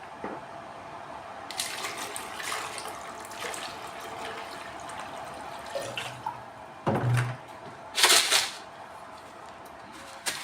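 Water being poured into the HHO generator's water reservoir, a steady splashing fill, with two louder knocks of handling about seven and eight seconds in.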